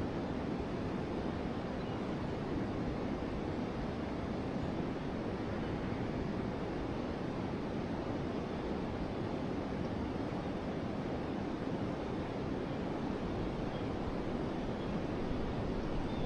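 Steady rush of a flowing river, an even low-pitched wash of water.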